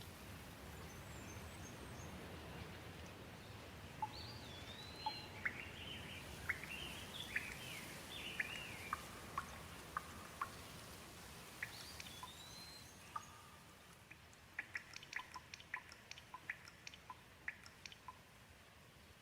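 Light rain hissing steadily, with small birds chirping through its middle stretch. In the second half, after the hiss eases a little, comes a quick run of sharp ticks like drips.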